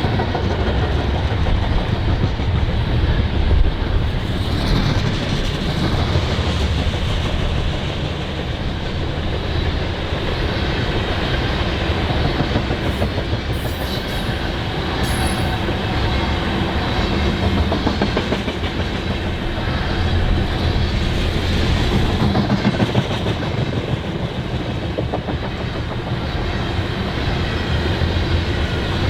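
Freight train cars rolling past, steel wheels clicking over the rail joints with a steady rumble. A few brief high squeals from the wheels near the middle.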